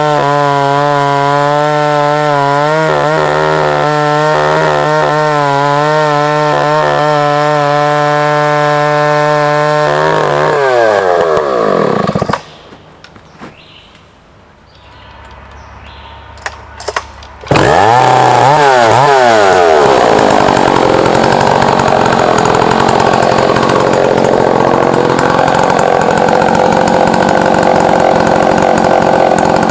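Husqvarna 2100-series two-stroke chainsaw on a chainsaw mill, running at high revs, then winding down about ten seconds in. After a few seconds of much quieter sound with a few light knocks, the saw is loud again, its revs climbing and then settling into a rougher, noisier note.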